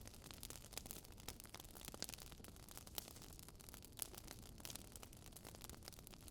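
Faint crackling fire: sparse, irregular pops and snaps over a soft hiss.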